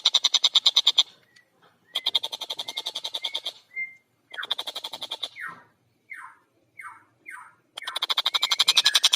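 Tengkek buto (collared kingfisher) calling: harsh, rapid chattering runs of fast repeated notes. A run a little over a second long and another of about two seconds are followed by a shorter one. Four short falling single notes come next, then a long run starts near the end.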